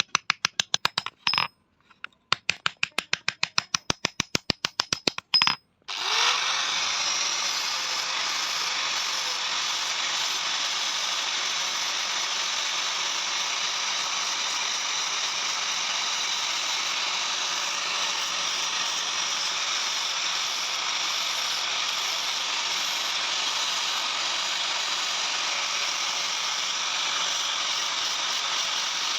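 Rapid hammer blows on iron sheet, about five or six a second with a brief ring on some, for the first six seconds. Then a steady harsh noise starts with a faint hum that settles in pitch, and runs on evenly.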